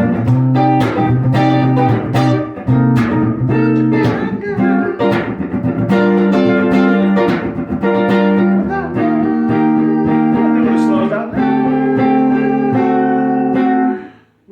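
Guitar strumming a rhythmic chord part in G minor, with repeated sharp chord strokes, cutting off suddenly near the end.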